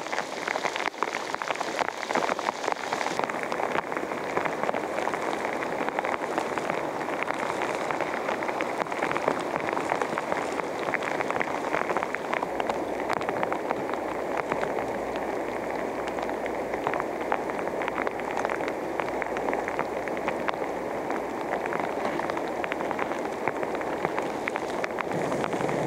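Heavy rain pouring down: a steady, dense hiss of countless drops pattering.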